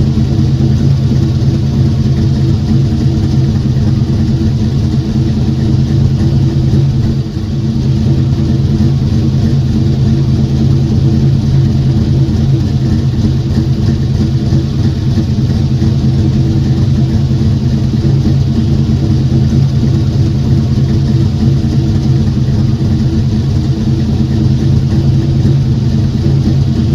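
Car engine running steadily at an even speed, with a brief dip in level about seven seconds in.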